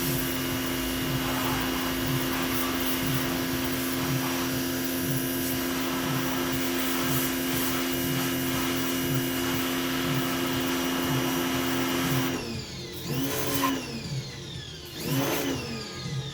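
Pressure washer running steadily with a motor hum as it sprays, cutting out about twelve seconds in, then starting up and winding down again twice in short bursts.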